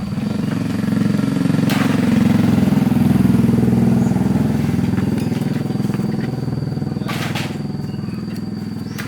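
Motorcycle engine running steadily, its revs rising a little and then easing back, with a couple of sharp clicks over it.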